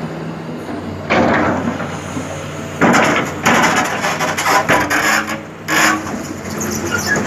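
Excavator engine running steadily, with several loud crashing and scraping noises from heavy material: one about a second in, a cluster between three and five seconds in, and another near six seconds.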